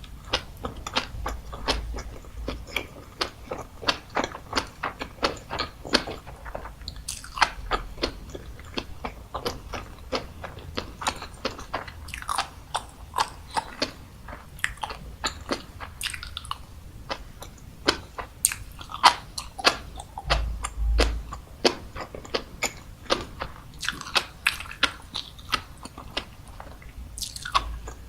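Close-miked chewing of tobiko (flying fish roe), the eggs popping between the teeth as a dense run of small, sharp clicks several times a second, with a few louder bites.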